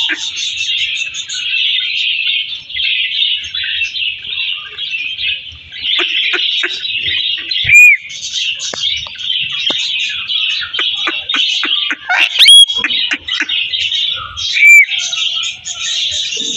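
Parrots chattering in a dense, unbroken high twitter, with three loud short whistling calls, the loudest sounds, about eight, twelve and fifteen seconds in.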